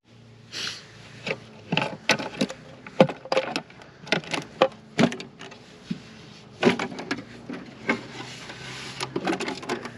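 Irregular clicks and knocks of the top cowling of a 60 hp Mariner outboard being unlatched and lifted off.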